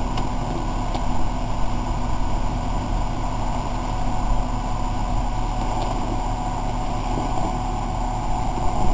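Jeep Cherokee's engine running at a steady drone as it sits against a rock ledge on a hill climb, unable to get up it.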